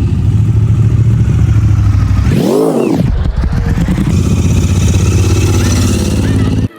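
Motorcycle engine running steadily, with one rev that rises and falls in pitch about two and a half seconds in.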